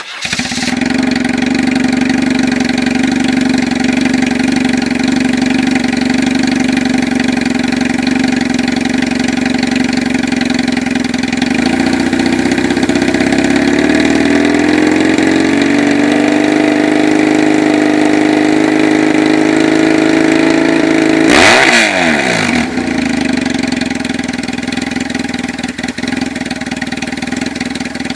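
2003 BMW R1150R's boxer twin running through a straight-pipe exhaust on its original header pipes. It comes in suddenly and idles steadily, the engine speed creeps up through the middle, then a quick sharp blip of the throttle, after which it settles back to idle.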